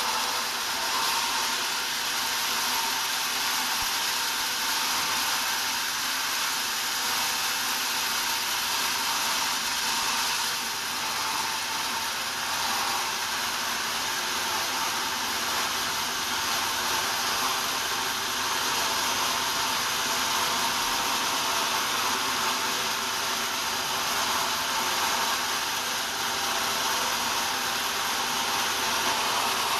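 Sawmill saw running and cutting timber: a continuous, even noise with no breaks, most of it high-pitched.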